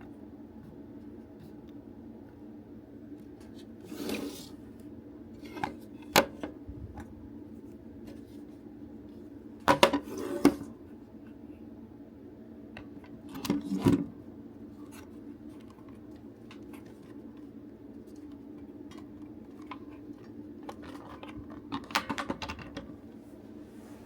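Hard plastic parts of a DX Buggle Driver Zwei toy belt and small tools being handled during disassembly: scattered sharp clicks, scrapes and clatters in several short clusters, over a steady low hum.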